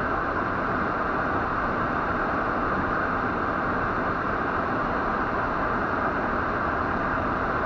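Steady road and wind noise inside a moving car's cabin, even and unchanging throughout.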